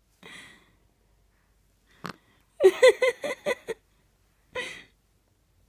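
Baby laughing: a burst of short, pitched, breathy laughs in quick succession in the middle, with a single breathy huff before and another after.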